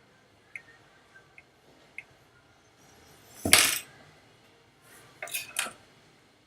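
Small metal hand tools clinking against a hard workbench surface: a few faint ticks, then one loud short clatter about halfway through, and a quick run of three or four sharper clicks near the end.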